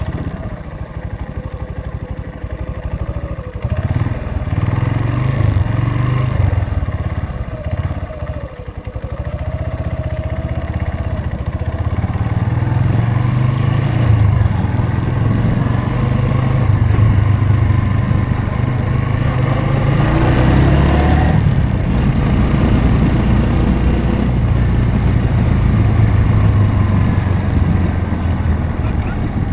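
Motorcycle engine running as the bike rides along, its pitch rising and falling with the throttle.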